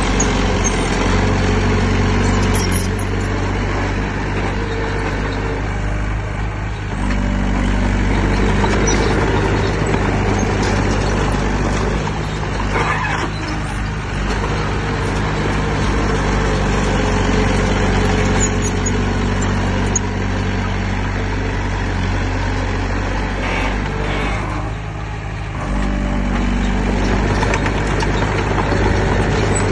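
Heavy diesel engine of earthmoving machinery running steadily, easing off briefly twice.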